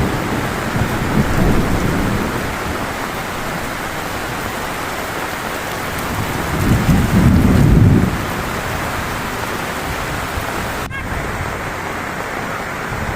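Heavy rain pouring steadily, with two low rumbles of thunder swelling through it, a short one early and a louder one around the middle.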